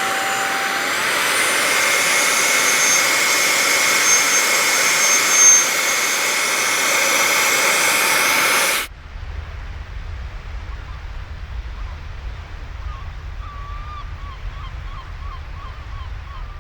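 Fanttik Slim V8 Mate cordless car vacuum running with a loud, high whine that rises in pitch as the motor spins up in the first second or two. It cuts off suddenly about nine seconds in, leaving a quieter low rumble with faint chirping.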